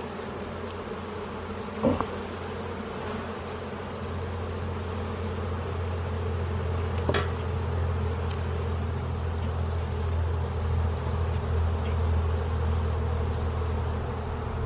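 Honeybees buzzing in a steady low hum around an open hive, swelling louder a few seconds in, with a couple of sharp clicks.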